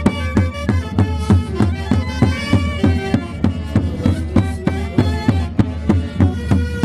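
Live Andean Santiago music: a band of wind instruments playing a melody over a steady drumbeat.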